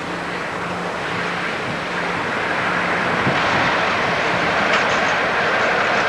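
Class 56 diesel-electric locomotive, with its Ruston 16-cylinder diesel engine, approaching with a loaded coal train: a steady engine hum under a broad rumble of wheels on the track, growing gradually louder.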